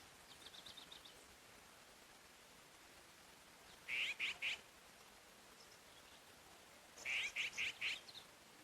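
Songbird singing in a forest: a short phrase of three to four loud, clear notes about four seconds in, repeated with a few more notes near the end. A faint quick trill of high notes from another bird comes in the first second, over a faint steady hiss.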